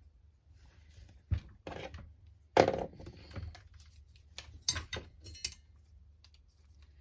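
Small metal and plastic parts and tools being handled during RC crawler reassembly: a few separate clinks and clatters, the loudest about two and a half seconds in.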